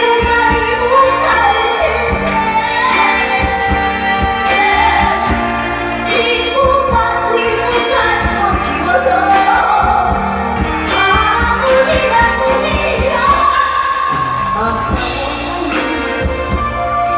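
A woman singing a Chinese pop song live over backing music with a steady beat.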